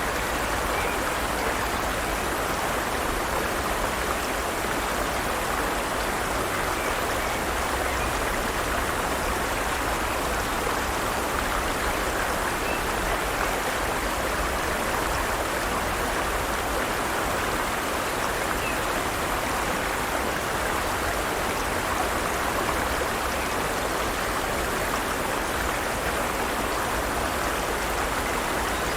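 Forest stream's water running steadily over rocks, an even rushing.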